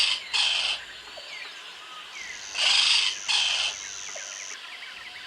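Parrot squawking: harsh, raspy calls in pairs, one pair at the start and another about two and a half seconds later. Behind them are a steady high tone and faint chirps of other birds.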